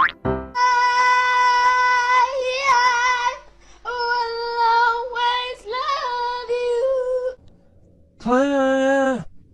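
A high voice singing or howling long, steady held notes, then one shorter, lower note near the end.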